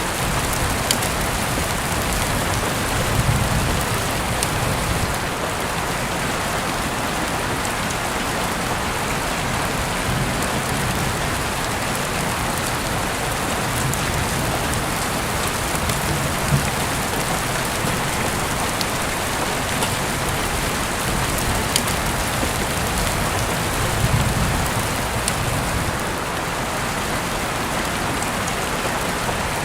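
Heavy rain heard through an open window: a steady hiss of rainfall with scattered sharp drip ticks.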